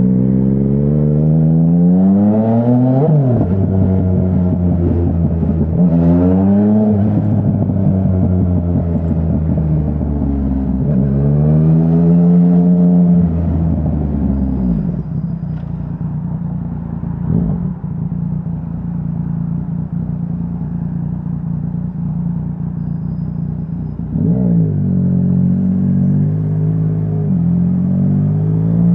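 Yamaha Tracer 900's inline-three engine through a Dominator HP3 full exhaust system, accelerating hard with two quick upshifts, pulling up through a gear and then backing off. It runs low and steady for several seconds, then pulls away again with two more quick upshifts.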